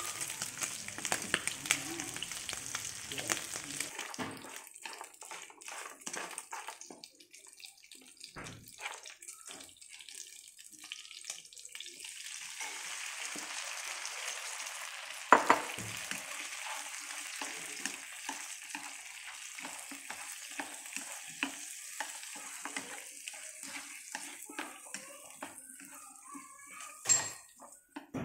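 Pork ribs sizzling in a frying pan while wooden chopsticks stir them, clicking and scraping against the pan. The sizzle dies down for several seconds, then comes back steadily as chopped aromatics are tipped in, with a sharp knock about halfway through.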